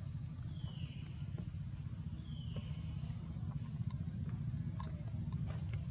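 Two short, high calls, each falling in pitch, from a hungry newborn pigtail macaque, over a steady low rumble.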